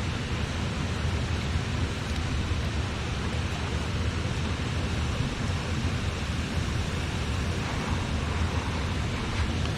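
Steady rushing of a river, an even noise heaviest in the low range, with a faint click or two near the end.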